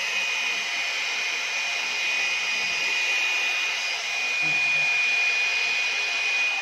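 One-step hair dryer and styler (hot-air brush) running steadily: an even rush of blown air with a steady high whine from its motor.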